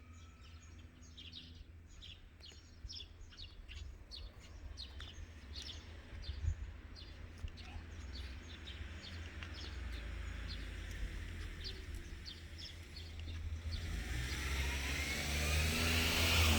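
A small bird chirping repeatedly in short high notes over a low outdoor rumble; near the end a car on the road approaches, its tyre and engine noise growing steadily louder.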